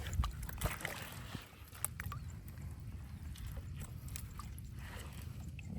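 Water sloshing and splashing, with scattered small knocks and clicks.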